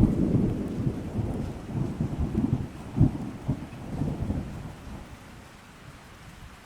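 Thunder rumbling over steady rain, with several deep surges in the first four seconds, then dying away to a softer rain hiss about five seconds in.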